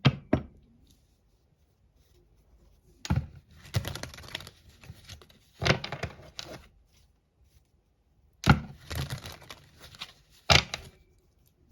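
A deck of oracle cards being handled and shuffled: sharp clacks, each followed by a second or so of crackling card noise, in about five bursts a couple of seconds apart.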